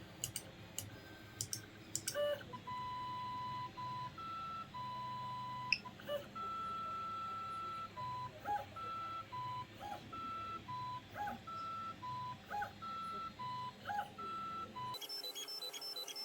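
Stepper motors of a home-built crossed-cantilever 3D printer whining in steady tones during a print. The tones switch back and forth between two pitches as the head changes direction, with short chirps between moves and a few clicks at the start. Near the end a fast repeating musical pattern takes over.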